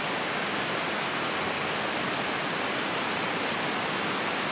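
River rapids rushing: a loud, steady roar of white water.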